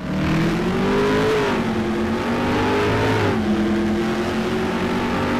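Car engine accelerating under load and shifting up through the gears: the engine note climbs, then drops at a shift about a second in and again a little past three seconds.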